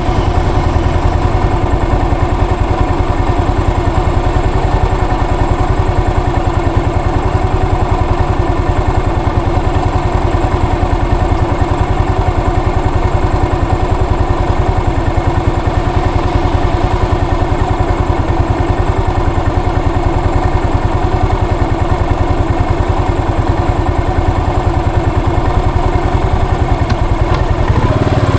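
Yamaha SR400's single-cylinder four-stroke engine running steadily at low revs with even firing pulses, rising slightly near the end.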